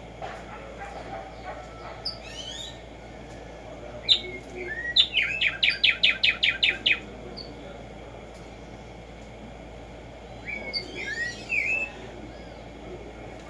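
Black-striped sparrow (tumba yegua) singing: a few separate introductory notes, then a quick run of about nine evenly spaced notes over two seconds, with more twittering chirps near the end.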